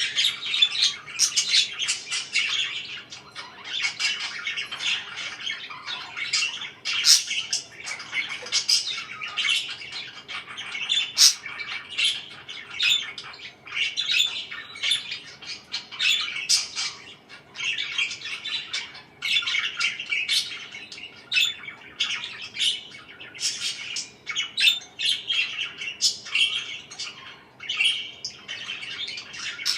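Pet parakeets chattering with a continuous stream of quick chirps and squawks, with no pauses.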